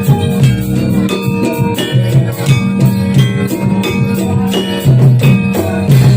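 Javanese gamelan ensemble playing jathilan dance music: struck bronze metallophones ringing held notes over a steady beat of drums and percussion.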